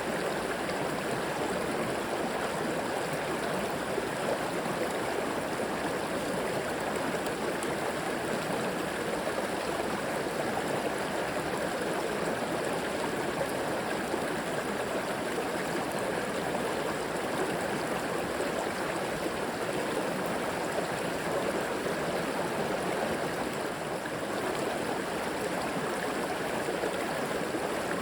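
River water flowing and gurgling over rocks, a steady rushing with no breaks.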